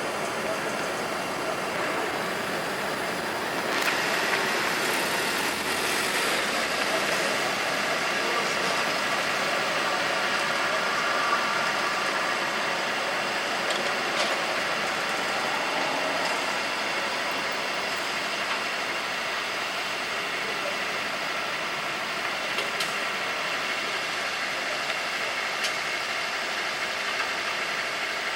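Street traffic: vehicle engines running and idling under a steady wash of road noise, with a few brief louder passes and clicks.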